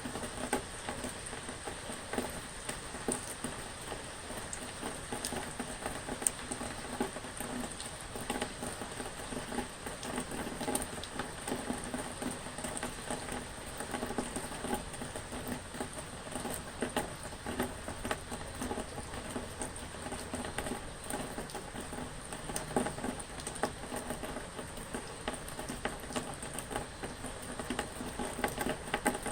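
Rain pattering steadily: a dense, even spatter of drops that keeps up throughout.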